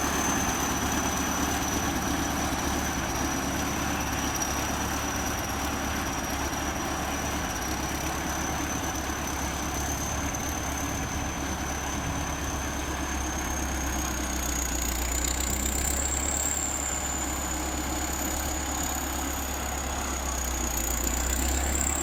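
Diesel engine of a ChTZ T-170 crawler bulldozer running steadily, with a thin high whine over it that rises slightly in pitch about two thirds of the way through and again near the end.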